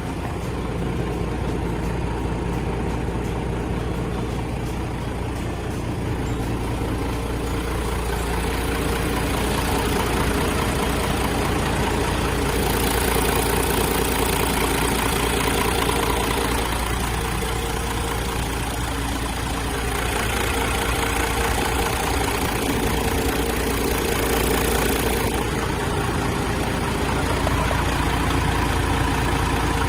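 Isuzu Giga heavy truck's diesel engine idling steadily, with a higher hiss joining for about twelve seconds in the middle.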